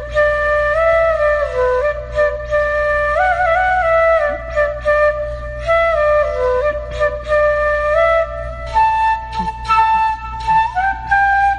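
Background music: a flute playing a slow melody of held notes stepping up and down.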